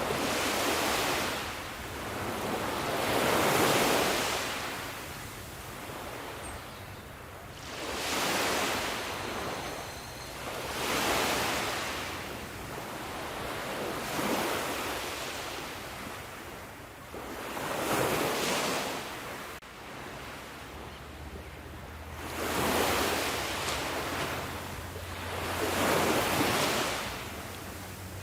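Sea waves breaking and washing on a shore, one swell of surf every three to four seconds, about eight in all.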